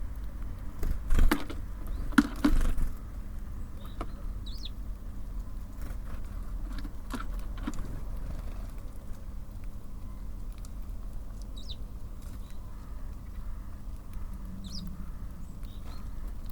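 Small birds at a city bird feeder over a steady low rumble of traffic: a few loud knocks and taps about one to three seconds in, then three brief high bird calls spread through the rest.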